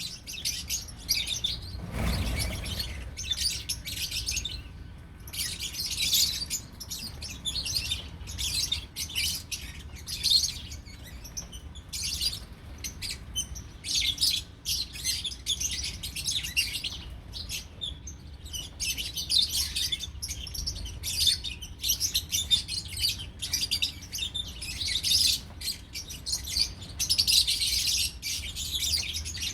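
Lovebirds chirping and chattering almost without pause, in rapid high-pitched calls that come in clusters with short gaps. A brief low thump comes about two seconds in.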